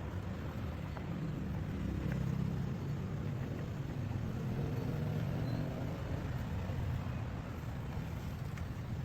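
Steady low rumble of road traffic, swelling for a few seconds about two seconds in as a vehicle goes by.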